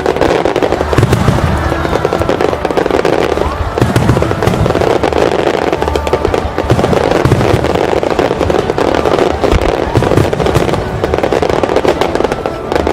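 A fireworks display firing a dense barrage: many bangs and crackles in rapid succession, starting suddenly. Music plays underneath.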